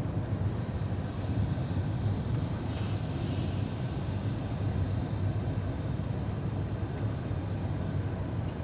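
Steady low rumble of cabin noise inside an Airbus A350-900 powered by Rolls-Royce Trent XWB-84 engines, with a brief soft hiss about three seconds in.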